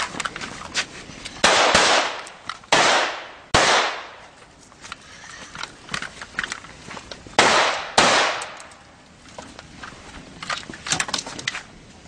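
Pistol shots fired in a timed competition stage: three loud shots about a second apart, a pause of several seconds, then two more about half a second apart, each with a short echo. Fainter sharp cracks and clicks come between them and as a quick cluster near the end.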